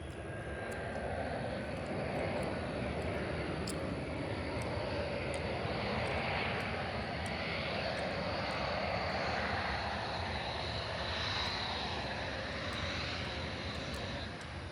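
Private jet's turbofan engines passing on its landing approach: a broad rushing engine noise with a high whine, building over the first couple of seconds and fading away near the end.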